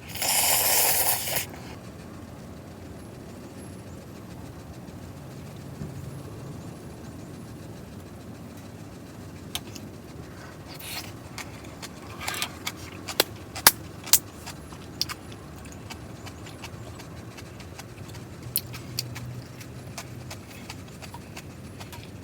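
Eating with utensils at a meal: a brief loud rush of noise at the start, then scattered sharp clicks and taps of utensils against dishes over a quiet steady background, busiest in the middle.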